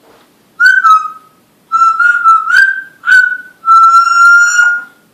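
A talking parrot whistling a short tune in four loud phrases, the last a long held note that ends near the close.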